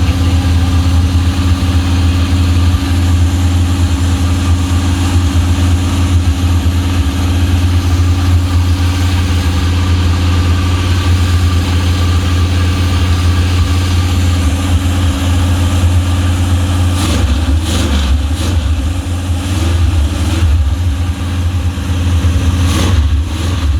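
Mopar 400 big-block V8 idling steadily after a carburettor rebuild and tune-up. In the last several seconds the running grows less even.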